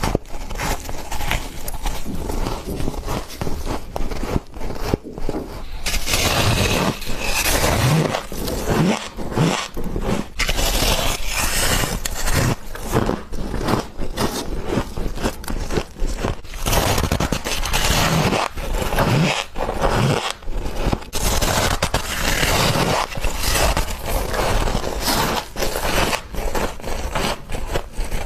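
Close-up crunching and scraping of frost being bitten and chewed, a dense run of irregular crisp crunches that grows heavier about six seconds in.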